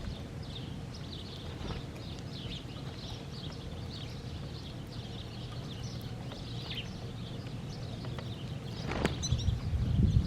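Small birds chirping in many short, quick calls over a steady low rumble. A sharp click comes about nine seconds in, followed by louder low rumbling near the end.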